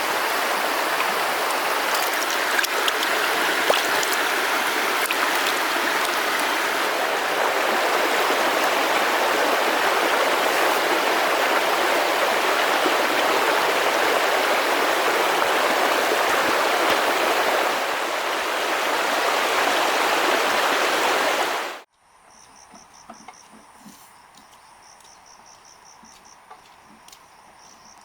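Loud, steady rush of fast-flowing river water, cut off abruptly about three quarters of the way in. A much quieter scene follows, with faint, evenly pulsed high chirping.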